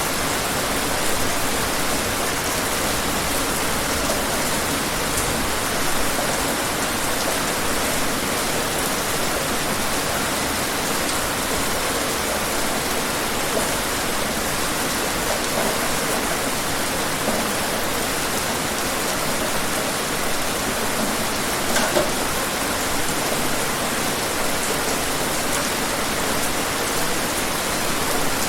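Steady rain falling in a dense, even hiss, with a few individual drops hitting louder now and then.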